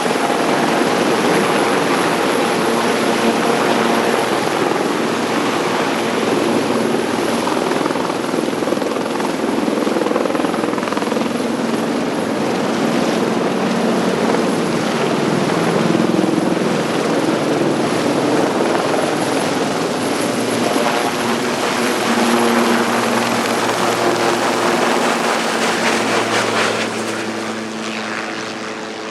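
Sikorsky S-76C twin-turbine helicopter running loud and steady: rotor noise with a high turbine whine over it. The sound fades over the last couple of seconds.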